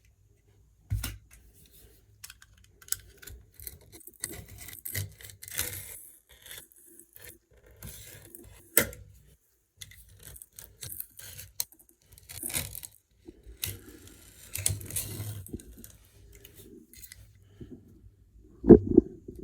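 Old silicone sealant being cut and scraped off around a shower tray with a blade and scraper: irregular scraping and tearing strokes and small tool clicks. A heavier knock comes near the end.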